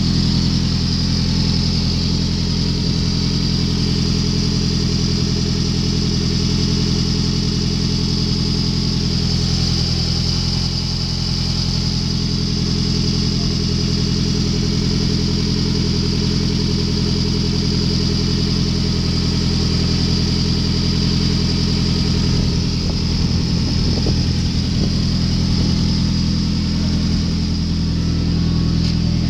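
2003 Toyota Camry engine idling steadily, running at an even speed without revving.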